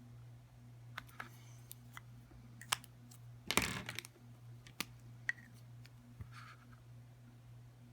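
Scattered light clicks and taps from handling Sharpie markers and a plastic phone case while colouring, with a brief louder rustle about three and a half seconds in. A steady low hum runs underneath.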